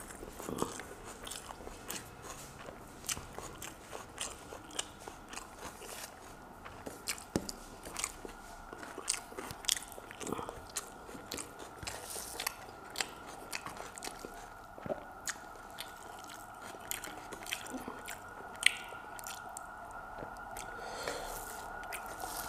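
A person chewing a mouthful of fried surma fish and rice, with many short sharp mouth clicks and smacks all through. A faint steady hum runs underneath.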